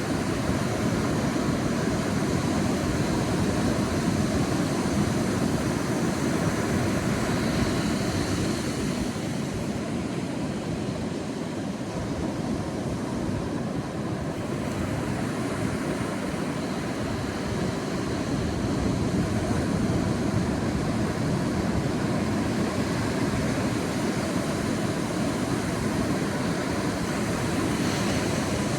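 Sea surf washing onto a beach: a steady rushing wash that swells and eases over several seconds, with a softer lull about ten seconds in.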